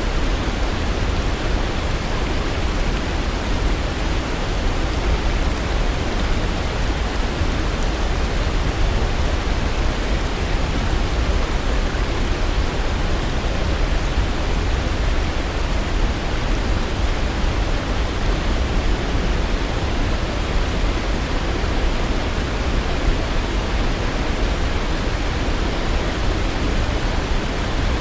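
Waterfall: steady, unbroken rushing of falling water, heaviest in the low end.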